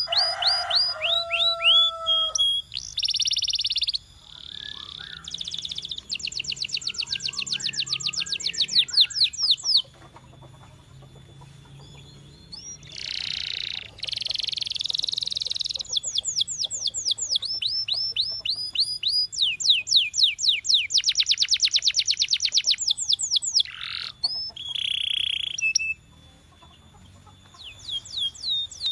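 Canary singing: fast trills of rapidly repeated, sweeping whistled notes alternating with buzzy rolls, broken by two short lulls, about a third of the way in and near the end.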